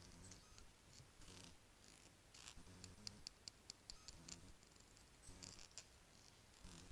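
Bracelets being handled close to the microphone: faint rustling and clinking, with a quick run of about seven light clicks around three seconds in.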